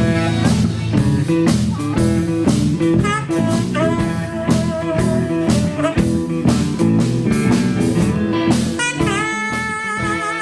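Live rock band playing an instrumental jam: guitar lead over drum kit and bass. Near the end a long held note with slight bends comes in.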